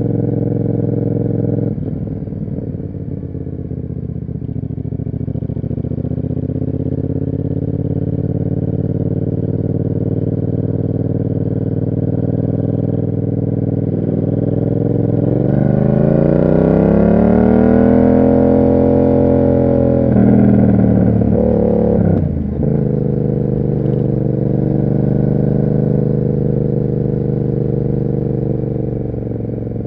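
Yamaha MT-07's parallel-twin engine through an SC Project exhaust while riding, running steadily on a part throttle. About halfway through it revs up in one long rise, holds at the top for a couple of seconds, then drops back and settles into a steady run again.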